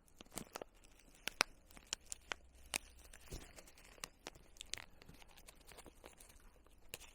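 Plastic food pouch and topping packet crinkling, with scattered sharp clicks and ticks as a topping is shaken out into the pouch.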